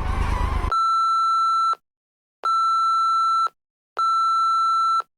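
Censorship bleeps: a steady high electronic tone repeated as about four beeps, each roughly a second long, with total silence between them, laid over swear words. Motorcycle riding noise is heard briefly before the first bleep.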